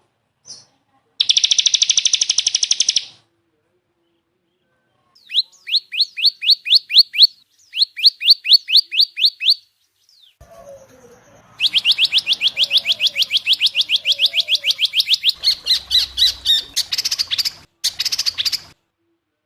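Recorded songbird calls spliced together with abrupt silent gaps. A dense buzzy trill comes first. Then there are two short runs of quick, repeated downward-sweeping notes at about five a second, and a longer, faster run of the same kind of notes that breaks into short bursts near the end.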